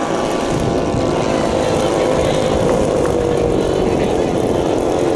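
Giant-scale RC model airplane engine running steadily, its pitch sagging slightly and rising again.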